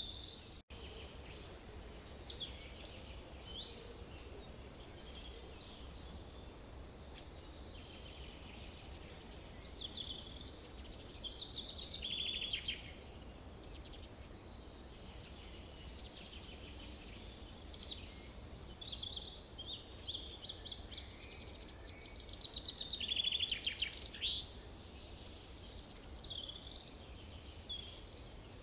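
Forest ambience: several birds singing and calling with short chirps, whistles and fast trills, over a steady low background noise. Two louder trilling passages stand out, one near the middle and one about two-thirds through.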